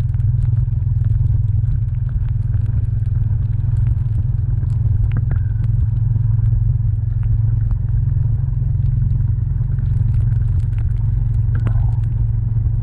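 Honda CB350's single-cylinder engine running steadily, a deep low-pitched sound at an even level.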